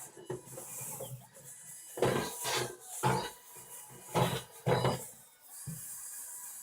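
A cleaning brush spun by an electric drill scrubbing the inside walls of a microwave oven, in about five short bursts over a couple of seconds, with a faint hiss between them.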